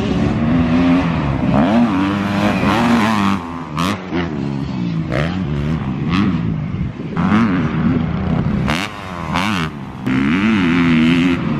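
Dirt bike engine being ridden hard, revving up and dropping back many times in quick succession.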